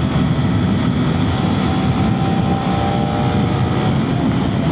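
A KTM Duke 250's single-cylinder engine running steadily under way, heard through wind buffeting on a microphone inside the rider's helmet.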